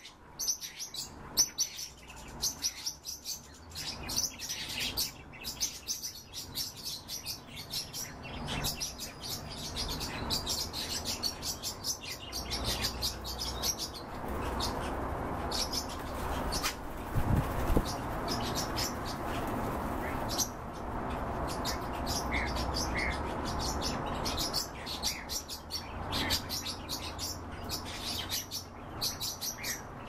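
Cage birds chirping: quick, high chirps in rapid runs, with a steady low hiss of room noise under them through the middle stretch.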